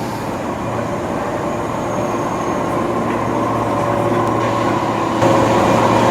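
A train running through the station with a steady rumble of rail noise and a hum, growing louder about five seconds in.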